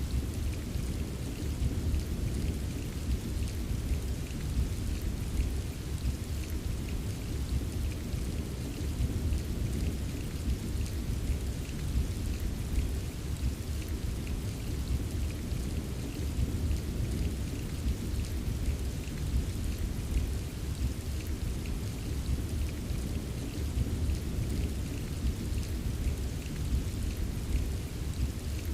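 Steady rain with light ticks of drops, over a continuous deep low rumble of distant thunder.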